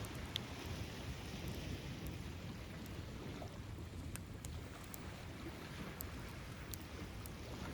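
Wood bonfire crackling with scattered sharp pops, over a steady low rumble of surf and wind.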